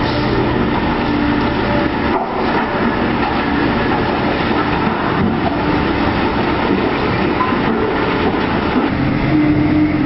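Heavy machinery running steadily: a loud, dense engine and mechanical noise with no breaks.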